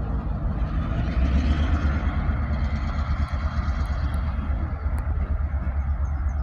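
Train passing: a steady, heavy low rumble of the locomotive and rolling cars, with a few sharp clicks in the middle.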